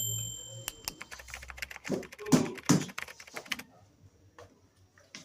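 A quick run of small clicks and knocks from a clipper blade being handled and worked against a sharpening stone, loudest about two to three seconds in, then a few sparse faint clicks.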